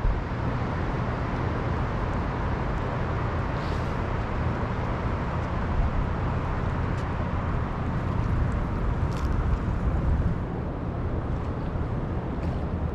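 A steady low engine hum under a broad, even rushing noise, with a few faint clicks.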